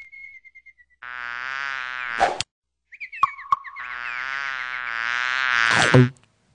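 Frogs giving two long, buzzing, croak-like calls, the second longer and growing louder, with a few short chirps and clicks between them.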